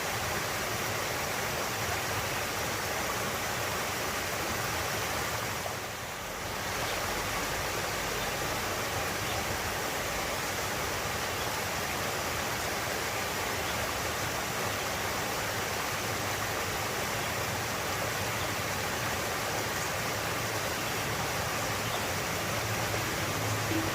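Fast-flowing water rushing steadily, with a brief dip in level about six seconds in.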